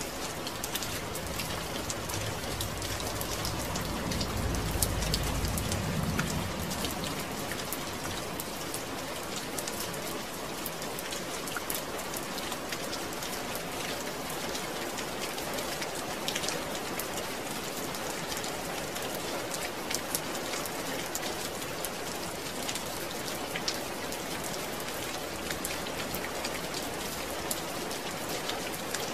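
Steady rain falling, with many individual drops ticking through a continuous hiss. A low rumble swells and fades about four to six seconds in.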